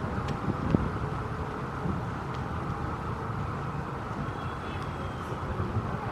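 City street ambience: a steady rumble of traffic with a few sharp clicks and knocks.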